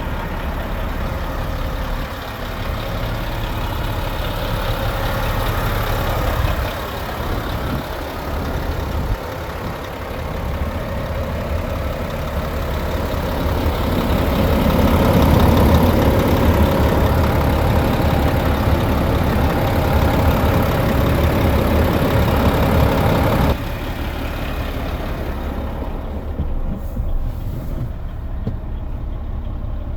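Renault C 380 truck's diesel engine running steadily. It grows louder from about halfway through, then drops back suddenly about three-quarters of the way in.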